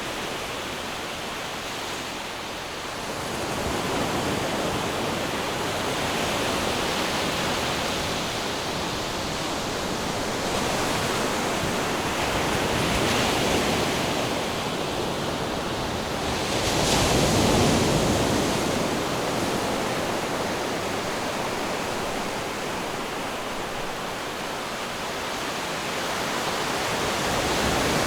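Ocean waves washing onto shore, a steady surf rising and falling in slow swells, with one stronger wave breaking about two-thirds of the way through.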